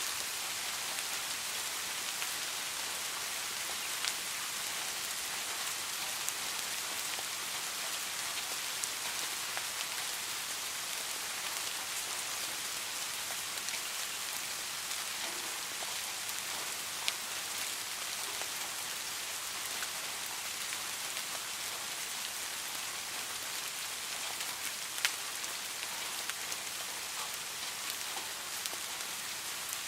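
Steady rain, a constant even hiss with a few sharper single drop ticks scattered through it.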